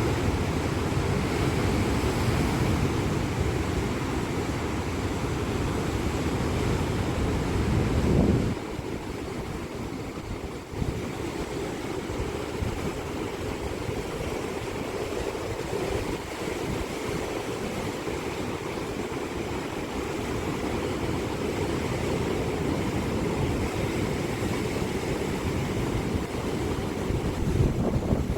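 Sea waves washing and breaking on the shore, a steady rushing surf with wind buffeting the microphone. The level drops suddenly about eight seconds in and the surf carries on softer.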